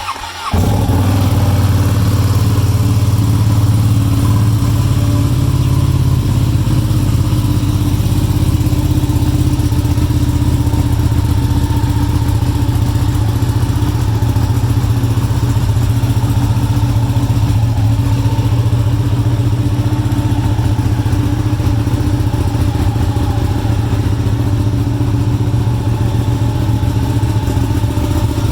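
Ducati Panigale 959 sport bike's Superquadro V-twin starting up and then idling steadily.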